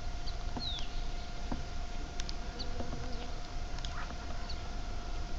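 Backyard birds giving short, scattered high chirps over a steady, even hum.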